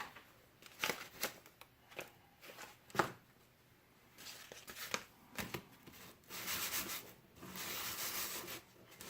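Emery cloth rubbing on a metal transaxle part. A few light clicks and knocks come first, then two longer scrubbing strokes near the end.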